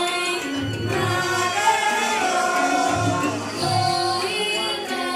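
Idol pop song played over a sound system: a steady kick-drum beat with a sung melody over it.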